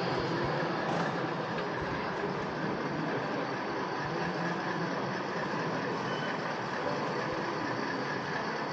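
Steady background din of a busy model railway exhibition hall: visitors' chatter mixed with the running of model trains on the layouts.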